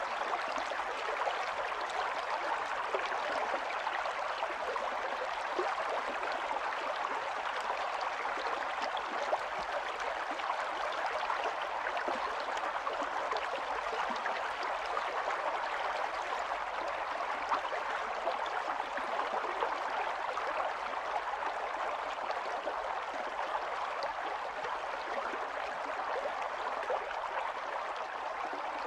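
Shallow stream running steadily over stones, a continuous splashing rush with fine gurgles.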